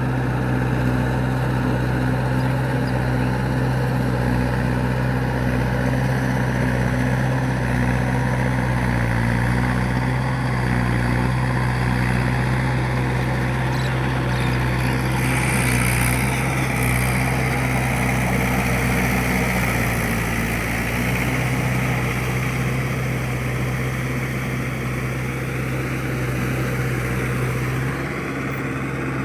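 Mahindra 585 tractor's diesel engine running steadily. A hiss joins it about halfway through for several seconds.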